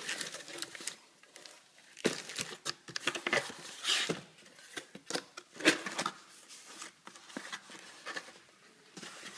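Packaging being handled: a small box and its wrapping rustled, crinkled and tapped in irregular short bursts, with a few sharper clicks.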